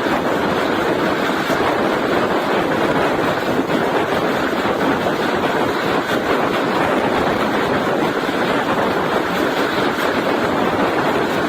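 Passenger express train running at speed: a steady rushing noise of wind and wheels on the track that holds level without change.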